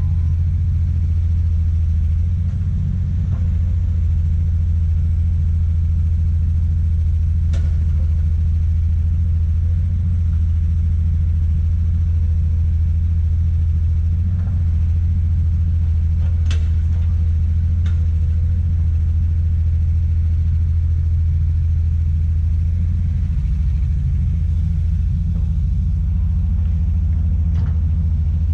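Komatsu PC200 excavator's six-cylinder diesel engine running steadily with a deep, even rumble, with a few faint knocks of the machine at work.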